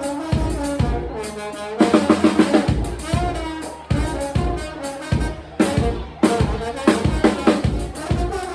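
Live band music: a drum kit's bass drum, snare and rimshots keep a steady beat under a pitched melody line.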